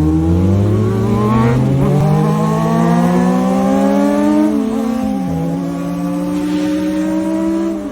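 Sport motorcycle engine accelerating hard, its pitch climbing for about four and a half seconds, dropping at a gear change, then holding nearly steady.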